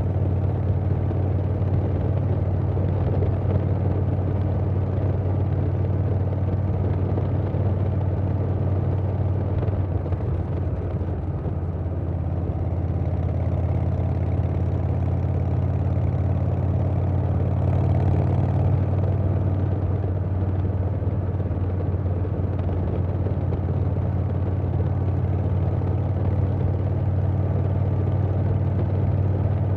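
Harley-Davidson Milwaukee-Eight V-twin with a Vance & Hines Big Radius 2-into-2 exhaust running steadily under way, with wind noise. The engine note eases off briefly about a third of the way in and picks up again a little past the middle.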